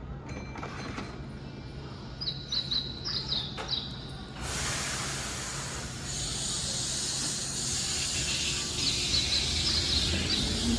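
Small birds chirping in short runs of quick notes. About four seconds in, a loud steady hiss starts and carries on, with more chirps near the end.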